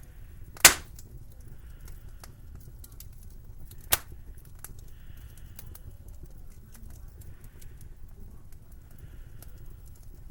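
Wood fire crackling in a fireplace: a steady low rumble under many small crackles, with two sharp pops, the louder one under a second in and a smaller one about four seconds in.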